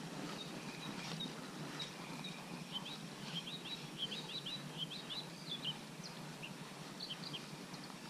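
A small bird singing a quick run of short, high chirps near the middle, over a steady background hiss.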